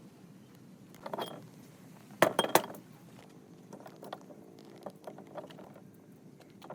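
Metal parts clinking and knocking against each other. A softer clatter comes about a second in, then two sharp metallic knocks in quick succession a little after two seconds in, which are the loudest, followed by light scattered clicks.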